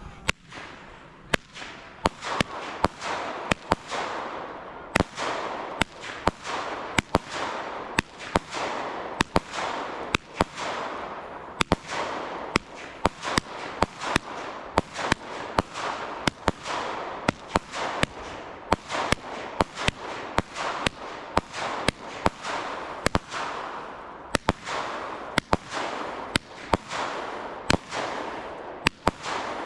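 Fireworks going off in a rapid barrage: sharp bangs about two a second, each followed by crackling.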